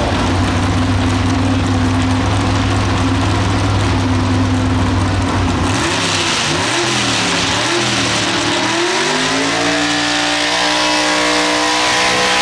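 Competition pulling-tractor engine running hard at a steady high pitch. About six seconds in the sound changes abruptly to an engine revving up and down, then climbing to a steady higher pitch.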